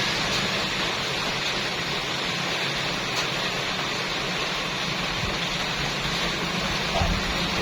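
Rain falling steadily, an even dense hiss, with a couple of small low knocks near the end.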